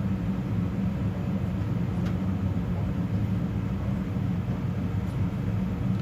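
Steady low engine rumble of motor vehicles running, with a faint knock about two seconds in.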